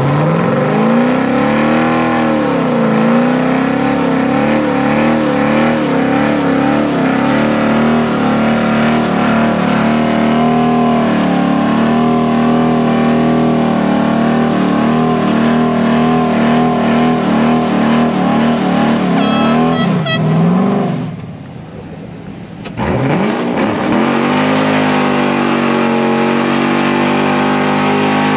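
A car engine running hard at fairly steady high revs, its pitch wavering. Shortly after two-thirds of the way through, the revs fall and the sound drops away briefly, then the engine picks up again and climbs.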